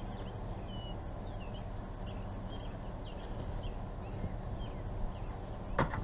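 Small birds chirping in short, scattered calls over a steady low hum, with one sharp knock near the end.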